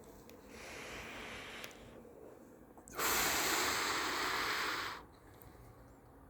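A person drawing a soft breath in, then blowing out a strong breath for about two seconds starting about three seconds in, as when exhaling a draw from a vape.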